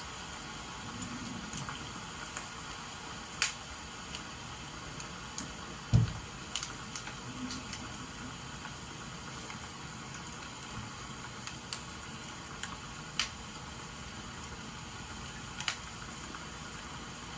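Crackling wood fire giving irregular sharp pops over a steady hiss of rain, with one dull thump about six seconds in.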